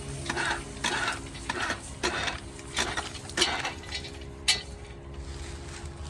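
Metal clinking and scraping, a stroke roughly every half second for about four and a half seconds, then tapering off.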